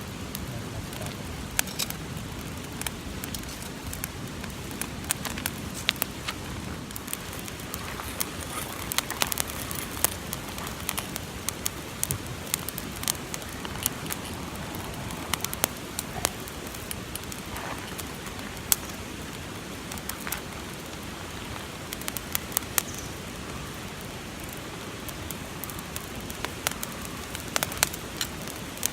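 Newly lit campfire of dead leaves and newspaper crackling, with sharp pops at irregular intervals over a steady hiss.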